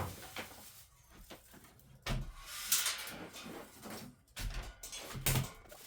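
Handling noises from unpacking a boxed pit bike: four separate knocks and scrapes with dull thuds, about two seconds in, just under three seconds in, about four and a half seconds in and near the end, with quieter rustling between.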